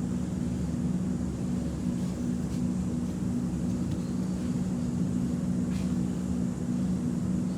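A stationary X'Trapolis 2.0 electric train's onboard equipment giving a steady low hum with two held tones while the train waits at a signal, with a couple of faint ticks.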